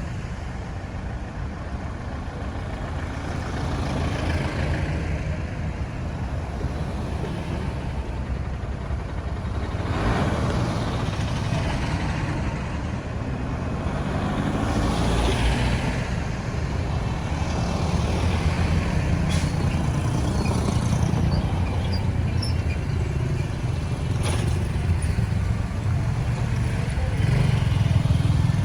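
Road traffic: a steady low engine rumble, with vehicles passing one after another so that the tyre and engine noise swells and fades several times. A couple of sharp clicks come near the end.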